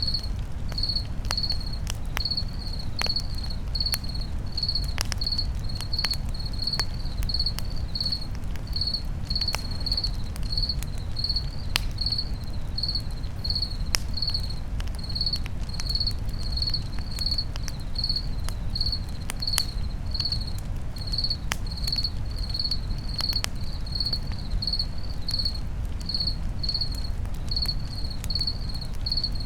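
Crickets chirping in a steady rhythm, about two high chirps a second, over a campfire crackling with scattered sharp pops and a low steady rumble.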